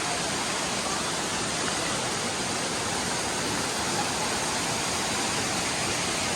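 Dunn's River Falls, a cascading waterfall, with water rushing steadily and evenly.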